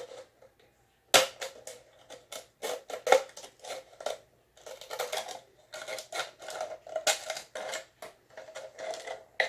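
Scissors snipping around a flimsy 2-litre plastic soda bottle, starting about a second in: an uneven run of sharp snips, a few a second, with the plastic crackling between them.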